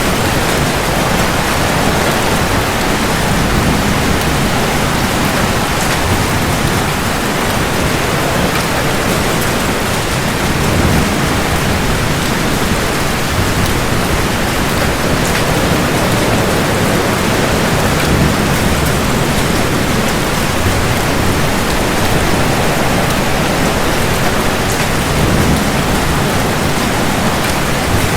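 Heavy rain falling steadily, with low thunder rumbling that swells and fades underneath.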